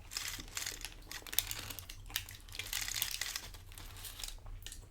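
Close-up crunching of tortilla chips being chewed: a run of quick, irregular crackles.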